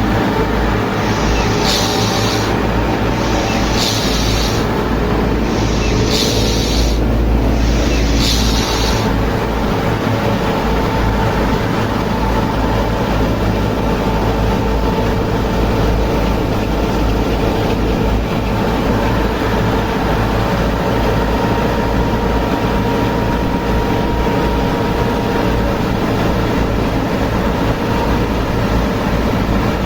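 Small home-built mini tractor and threshing machine running steadily with a heavy low rumble. For the first nine seconds, short hissing bursts come about every two seconds.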